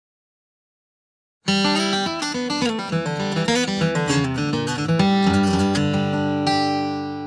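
Silence, then about a second and a half in, an acoustic guitar intro starts: a country song's instrumental opening.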